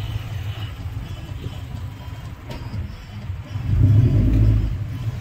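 Car engine idling with a steady low rumble, briefly revved louder about four seconds in.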